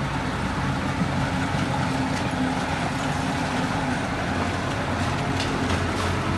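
Heavy diesel engine of earthmoving equipment running steadily, with a few faint clicks near the end.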